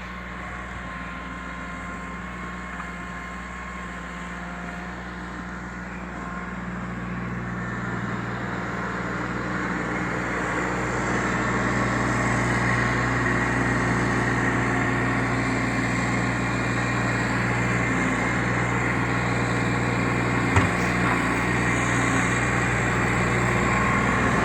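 An engine running steadily, getting louder over the first dozen seconds and then holding a constant drone.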